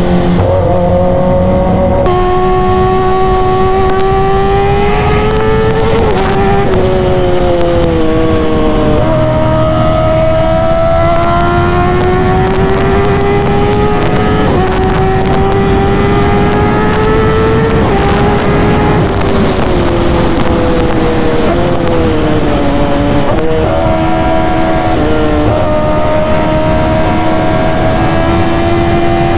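Kawasaki ZX-10R's inline-four engine running through an SC Project exhaust while riding. The note holds fairly steady, slowly rising and falling with the throttle, and drops abruptly in pitch a few times.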